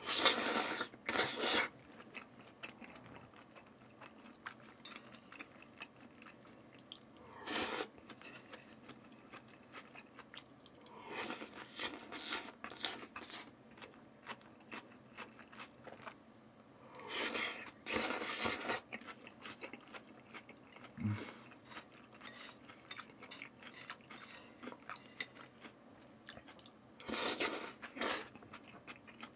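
A person eating raw salmon and sliced onion close to the microphone: chewing with soft wet clicks and crunches, broken about five times by louder noisy bursts a second or two long as mouthfuls are taken in.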